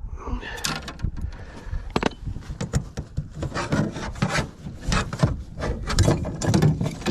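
Close handling noise: rapid, irregular rubbing, scraping and clicking right at the microphone while a deep-hooked crappie is being unhooked, over a low wind rumble.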